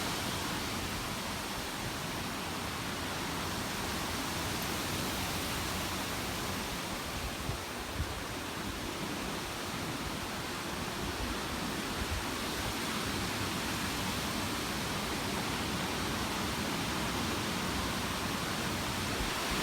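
Steady rain falling during a hurricane, an even hiss with no breaks.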